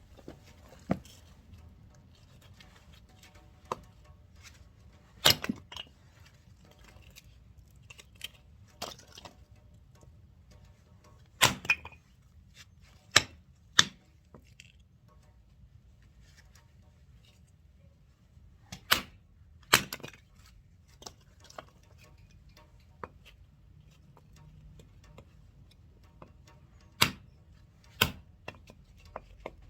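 Firewood being split by hand: about a dozen sharp chopping strikes and cracks of a blade biting into and splitting logs, coming irregularly, several in quick pairs.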